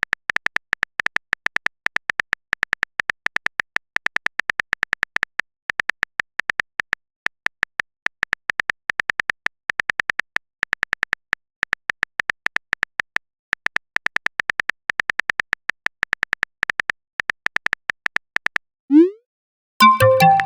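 Simulated phone keyboard typing sound effect: fast, irregular clicking taps with short pauses. Near the end a short rising swoosh, like a message being sent, is followed by a chiming notification tone.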